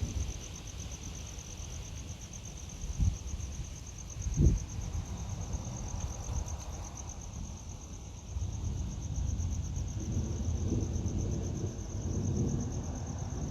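Crickets trilling steadily at a high pitch, with a low rumble underneath that grows louder over the second half and two short dull thumps about three and four and a half seconds in.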